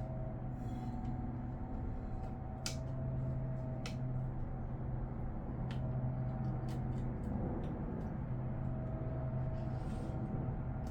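A steady low electric hum, like a small motor or fan running, with a few light sharp clicks of handling about three, four and six seconds in.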